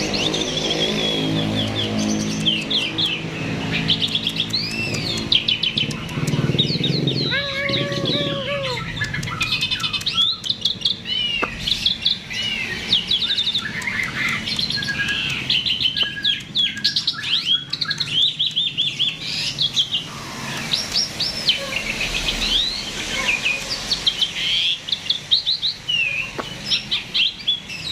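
A starling (jalak) singing gacor, a non-stop, energetic song of rapid, varied chirps and whistles. A low steady hum runs underneath during the first third.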